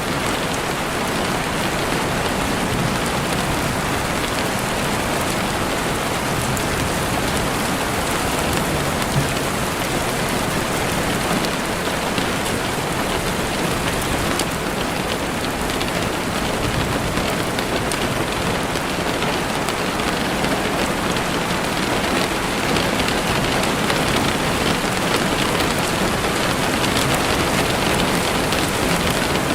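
Heavy rain falling steadily on a window, an even, unbroken hiss of drops.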